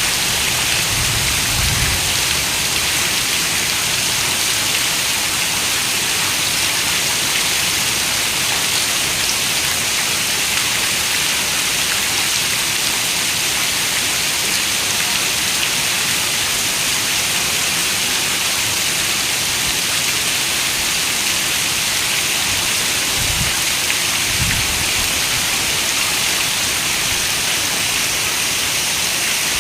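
Steady rain falling, an even hiss with no breaks. Brief low rumbles come through about a second in and again around 23 seconds in.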